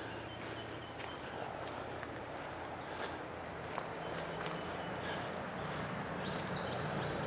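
Footsteps on a dirt woodland trail, with a low hum of passing road traffic that grows gradually louder through the second half and a few short high chirps near the end.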